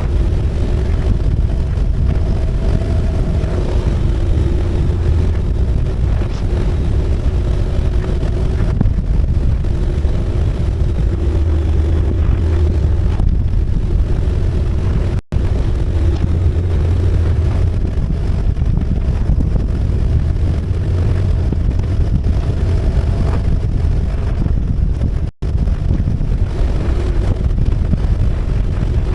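Motorcycle engine running at steady cruising speed, with wind buffeting the microphone. The sound cuts out briefly twice, about 15 and 25 seconds in.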